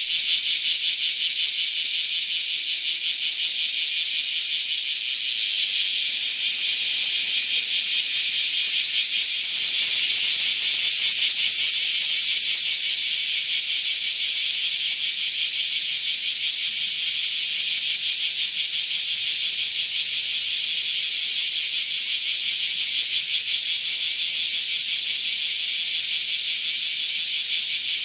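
Cicada calling: a steady, high-pitched buzz made of very rapid pulses, running on without a break.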